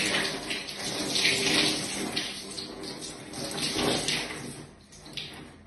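Water being poured and splashing in uneven gushes as nettle water is rinsed through hair, fading near the end.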